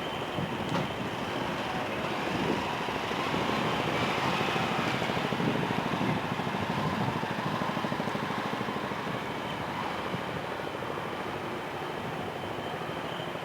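Train rolling past, a steady rumble and rattle that grows louder in the middle and then eases off.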